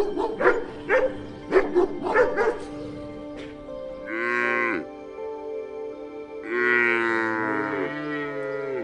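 A dog barks several times in the first couple of seconds. Then a cow moos twice: a short moo about four seconds in and a longer one from about six and a half seconds that drops in pitch at its end. Soft background music runs underneath.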